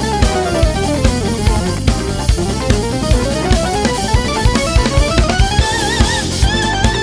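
Instrumental band playing: a drum kit keeps a steady groove with kick and snare. Over it a melodic line steps down and then climbs back up, turning into a wavering, vibrato-like tone near the end.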